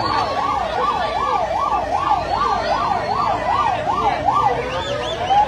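Electronic vehicle siren in a fast yelp, about three up-and-down sweeps a second, switching near the end to a slow rising wail.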